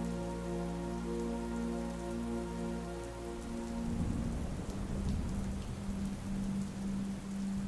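Steady rain falling, an even hiss with scattered drop ticks. Over it, a held ambient music chord ends about halfway through. It gives way to a low tone pulsing about twice a second over a deeper rumble.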